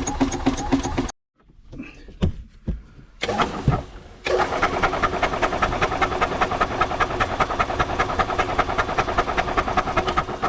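Club Car golf cart's FE290 engine being cranked over by its starter-generator without catching, a rapid even chugging: it has no spark. It cranks, stops about a second in, gives a short burst around three seconds in, then cranks steadily again from about four seconds in.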